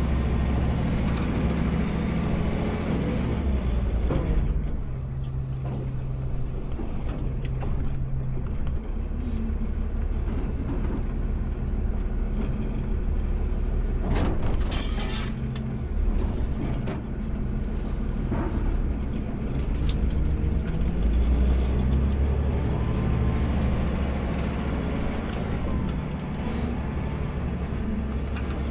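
Automated sideload garbage truck's engine running, heard from the cab, its pitch rising and falling as the truck works. A short hiss of air comes about halfway through, and there are scattered light clicks.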